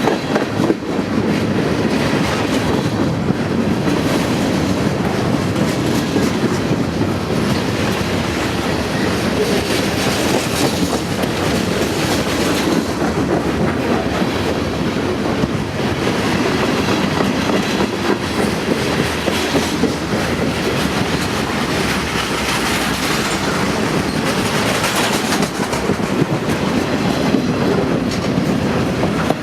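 A train passing close by: a long string of rail cars rolling past steadily, wheels clattering over the rail joints.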